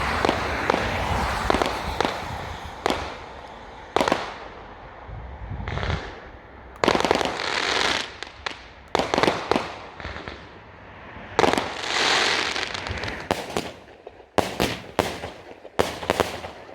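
Fireworks going off across the town: sharp bangs, some in quick runs, between longer noisy bursts lasting a second or two. A tight cluster of bangs comes near the end.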